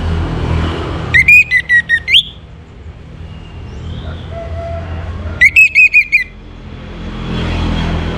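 Orange-headed thrush song: two short phrases of quick, loud whistled notes, each about a second long, a few seconds apart, over a steady low background rumble.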